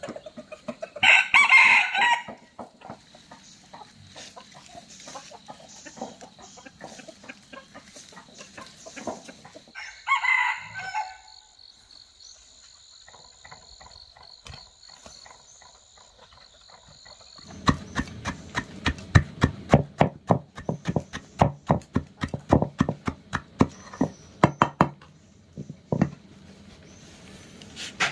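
A rooster crowing twice, about a second in and again about ten seconds in, over a faint steady high-pitched tone. From a little past halfway, a rapid, irregular series of sharp knocks.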